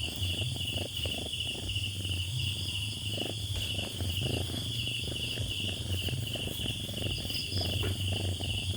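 Crickets chirping steadily in even, repeated pulsed chirps about twice a second, over a steady low hum.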